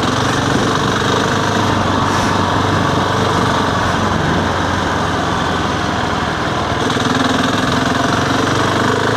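Husqvarna 701's single-cylinder four-stroke engine running at steady, low revs under way on a trail, heard from on board the bike.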